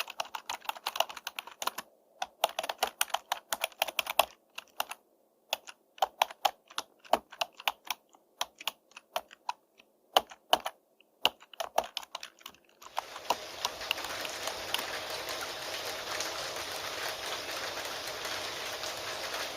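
Typing on a computer keyboard: quick runs of key clicks with short pauses between them. About two-thirds of the way through the typing stops and steady rain begins suddenly.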